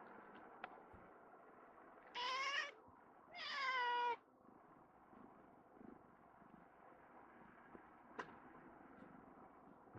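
A cat meowing twice, about two seconds in and again a second later; the second meow is longer and falls in pitch at its end. A faint click comes near the end.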